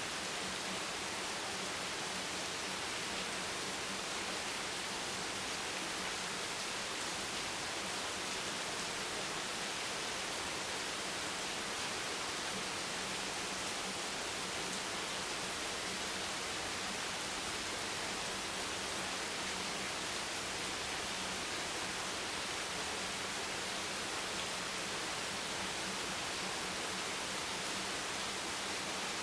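Steady rain noise: an even hiss, strongest in the high range, with no separate drops standing out and a faint low hum underneath.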